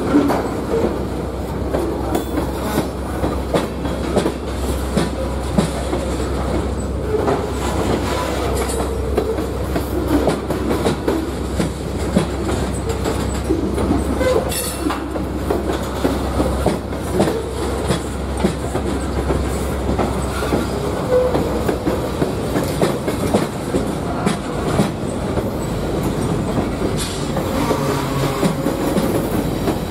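Freight train of tank cars and boxcars rolling past steadily, its steel wheels clattering over the rail joints in a continuous rush. A thin squeal from the wheels comes in near the end.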